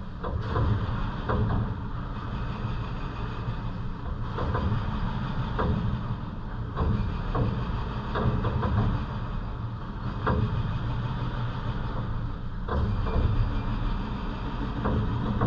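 Heavy rain falling over the city, a steady rushing hiss over a low rumble of traffic, with irregular drips tapping close by.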